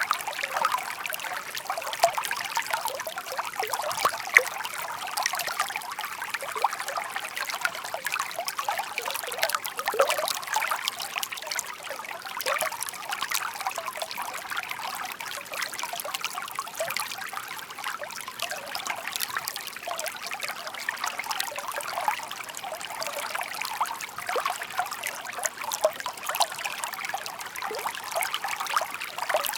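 Shallow stream babbling and trickling steadily over stones, a busy patter of small splashes with no let-up.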